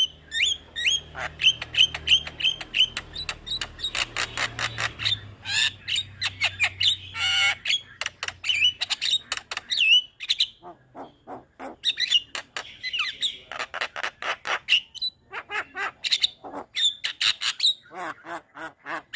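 Javan myna (jalak kebo) singing: fast strings of sharp repeated notes and harsh chattering calls, broken by a couple of short pauses.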